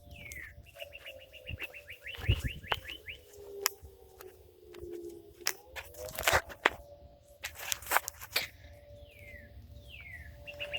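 Distant 3T22 fire siren sounding a steady tone, with a second tone sliding slowly down and back up partway through. Songbirds chirp and trill over it, and a few clicks come through.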